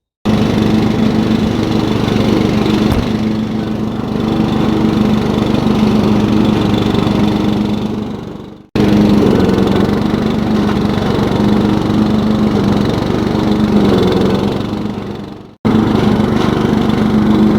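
Riding lawn tractor's engine running steadily while mowing. Twice it fades away and then cuts abruptly back in.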